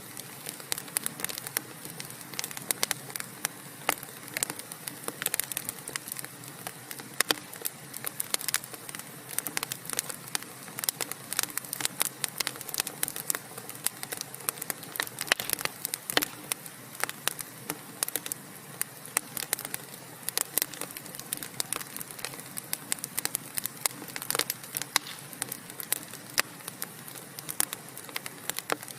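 Wood fire crackling in a fireplace: a steady hiss with dense, irregular sharp pops and snaps from the burning logs.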